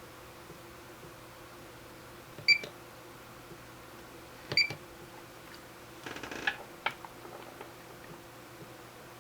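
Two short, high beeps from a digital multimeter about two seconds apart, as capacitors are being tested for capacitance. About six seconds in there is a brief rustle, then a few light clicks.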